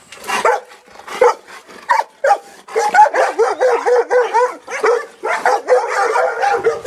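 A litter of Labrador retriever puppies yipping and barking, worked up: a few separate yips at first, then from about three seconds in a rapid, overlapping run of yips.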